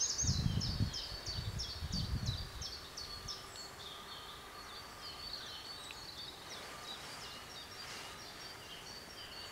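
A songbird singing a fast run of high, repeated downslurred notes that fades after about three seconds, followed by scattered faint chirps. A low rumble comes and goes in the first two seconds.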